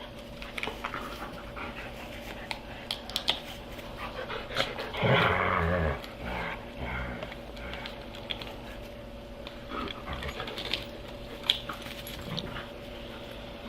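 Several dogs panting and scuffling, with scattered small clicks and knocks, and one loud dog vocalisation lasting about a second, about five seconds in.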